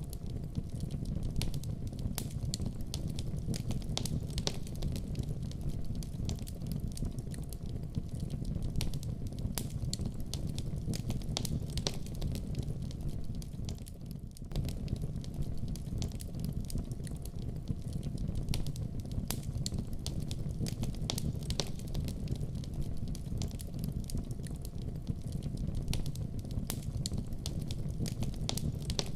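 Wood fire burning in a fireplace: a steady low rumble of flames with frequent irregular pops and crackles, dipping briefly about halfway through.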